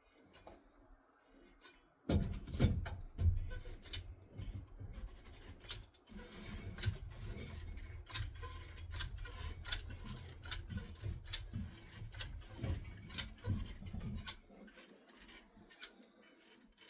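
Caulking gun being worked to lay a bead of construction adhesive (PL Premium): a long run of irregular clicks and rubbing handling noise, starting about two seconds in and easing off near the end.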